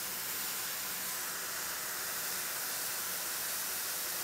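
Sliced leeks and diced pear frying in a hot skillet, giving a steady, even, high sizzle.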